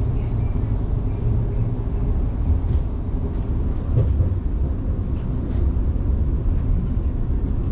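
Interior running noise of a Class 707 electric multiple unit in motion: a steady low rumble of wheels on rails, with a few faint knocks.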